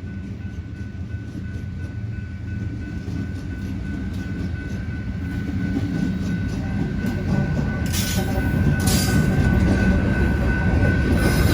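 Union Pacific diesel-led freight train rolling past, its low rumble growing steadily louder, with a thin steady whine over it and a few short hissing bursts in the second half.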